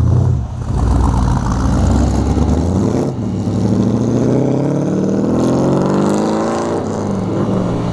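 Vehicle engine accelerating: a low rumble, then the revs climb steadily for about four seconds and fall away near the end as the next gear is taken.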